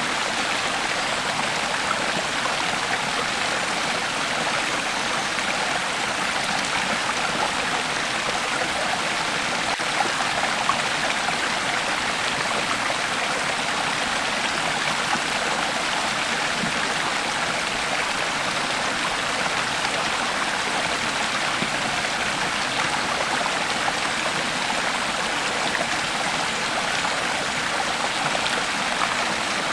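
Creek water flowing over stones, a steady rushing and babbling.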